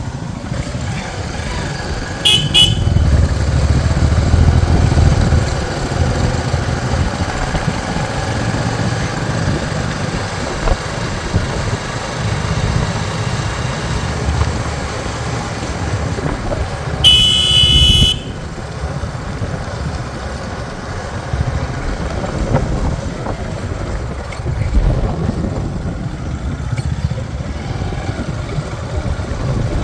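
Motorcycle engines running along the road, with a short horn toot about two seconds in and a louder horn blast lasting about a second near the middle.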